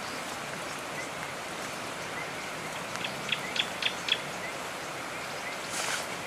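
Steady rain falling. A quick run of five short, high-pitched clinks or chirps sounds a little past the middle.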